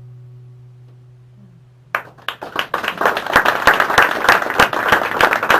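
The last note of the music dies away, and about two seconds in a group of listeners breaks into applause, the clapping growing louder.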